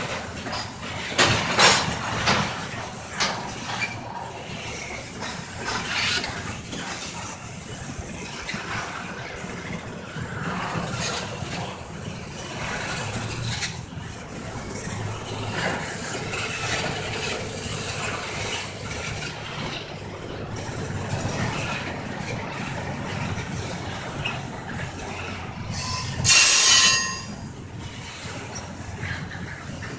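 Intermodal freight train cars rolling past with a steady rumble and clacking of wheels over the rails, sharp clicks early on, and a brief loud wheel squeal near the end.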